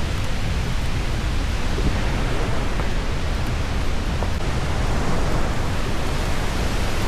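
Loud, steady rushing of falling water, an unbroken roar with a heavy low rumble.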